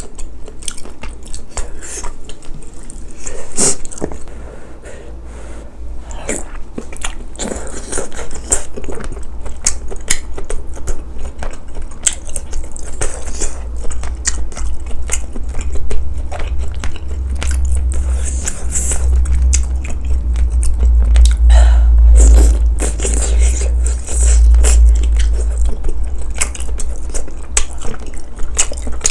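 Close-miked eating: a person chewing and biting spicy braised chicken with glass noodles, with many small wet clicks and mouth sounds over a deep rumble that grows louder past the middle.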